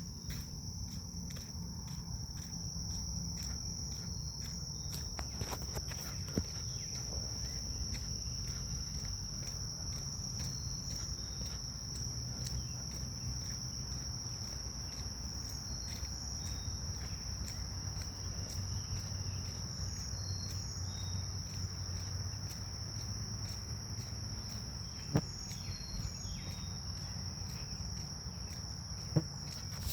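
Grass insects such as crickets singing in a steady, unbroken high-pitched chorus, over a low outdoor rumble, with two sharp clicks near the end.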